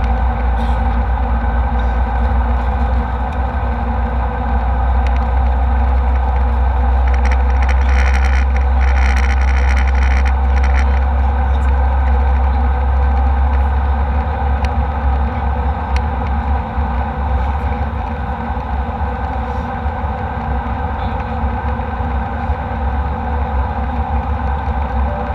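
Steady jet airliner cabin noise in flight: a deep, constant rumble of engines and airflow with a few steady tones. A brief higher hiss rises over it for a few seconds, about seven seconds in.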